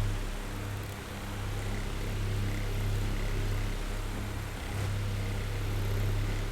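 Electric oscillating fan running: a steady low motor hum under the whir of moving air, the loudness swelling and dipping every few seconds.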